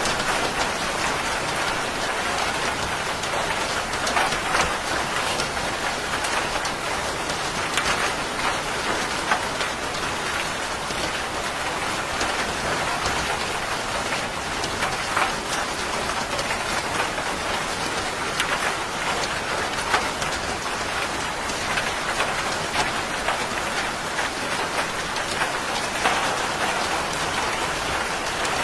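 Steady rain falling on a surface, a constant hiss with scattered sharper drop strikes standing out every few seconds.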